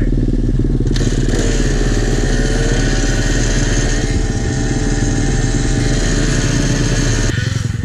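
Pit bike's small single-cylinder engine running at steady revs while riding, with an even rushing noise over it from about a second in until shortly before the end.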